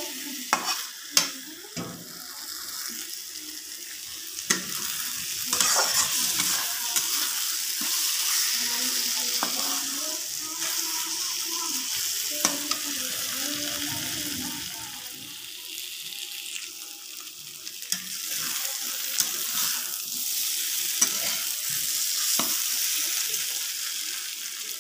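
Paneer curry sizzling as it fries in a metal kadhai, stirred with a metal spatula, with scattered knocks and scrapes of the spatula against the pan.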